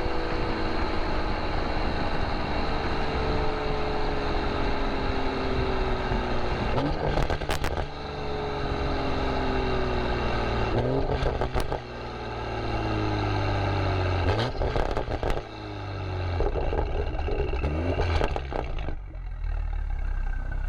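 A vehicle being driven, its motor pitch sliding slowly down and then rising again about four times as it slows and speeds up, over a steady low rumble with a few sharp clicks.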